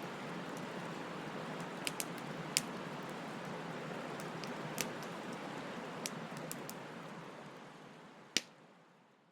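Bonfire burning with a steady hiss and scattered sharp crackles and pops from the burning wood, one loud pop near the end. The sound then fades out to silence.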